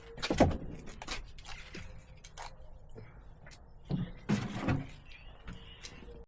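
Split firewood logs knocking and clunking against each other as they are handled and stacked, in irregular sharp knocks with louder clatters about half a second in and again around four to five seconds in.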